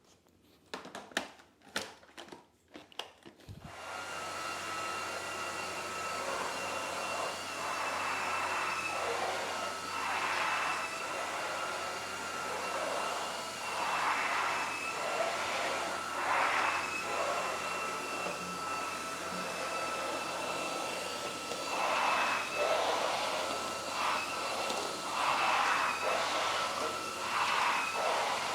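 A few clicks, then a Proscenic WashVac F20 cordless wet-dry floor cleaner starts up about three and a half seconds in and runs with a steady whine, its suction noise swelling and easing again and again.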